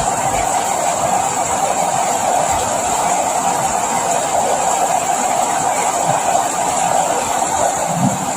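Steady rain: a continuous, even hiss of falling water with no letup.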